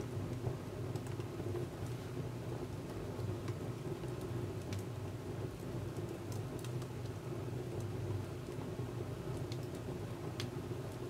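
Wood fire burning in a Contura wood stove: a steady low rumble with occasional small crackles and pops from the burning logs.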